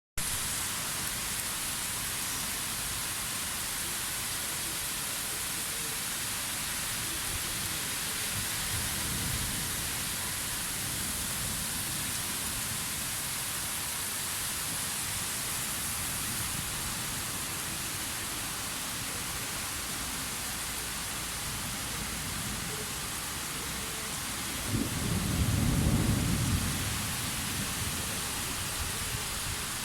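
Steady rain falling, with a low rumble of thunder near the end and a fainter rumble about nine seconds in.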